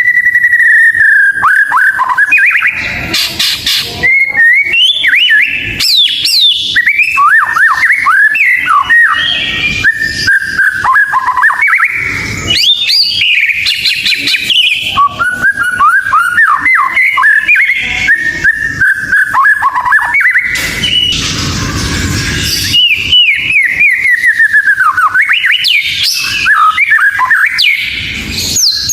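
White-rumped shama (murai batu) singing a loud, varied song of rapid whistled phrases and sliding notes, opening on a held whistle, with a harsher, noisier stretch about three-quarters of the way through.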